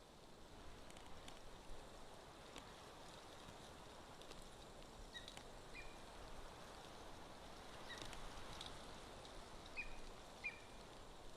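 Faint outdoor background with scattered light clicks and rustles, and several short, high bird call notes from about halfway through, the loudest two near the end.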